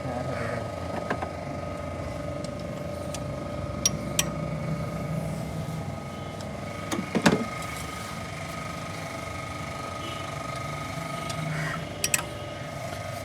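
A few sharp metallic clicks of hand tools working on engine parts, against a steady machine hum with a constant tone.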